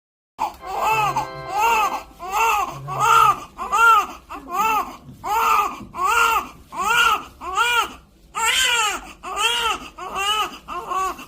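Newborn baby crying: a run of short wails, roughly one every 0.7 seconds, each rising and falling in pitch.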